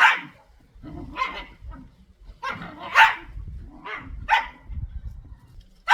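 A dog barking repeatedly, about five separate barks spaced a second or so apart, the loudest at the very start, about three seconds in and at the end.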